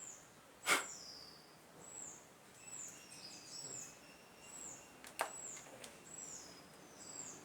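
A small bird calling over and over, short high hooked chirps more than once a second. Two sharp clicks cut in, about a second in and again about five seconds in; the first is the loudest sound.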